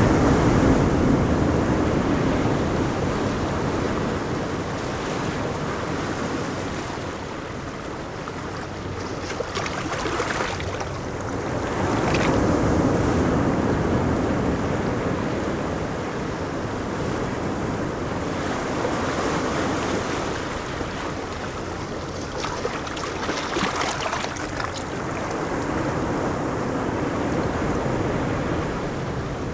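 Ocean waves breaking on a beach, the surf swelling and easing in slow surges every several seconds, with some wind on the microphone.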